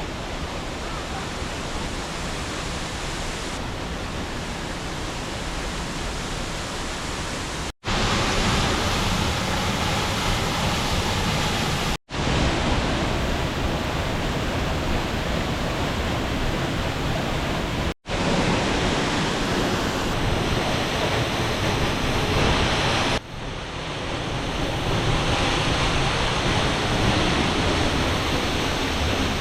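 Steady rush of a waterfall, an even wash of noise broken by three brief dropouts where shots are cut together, and changing in tone near the end.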